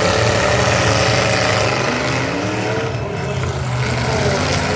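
Engines of full-size pickup trucks in a demolition derby, running and revving; the pitch climbs in a rev about two seconds in.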